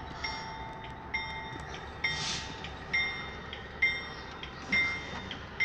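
Railroad bell ringing steadily, about one strike a second, during freight-yard switching. A short hiss comes about two seconds in.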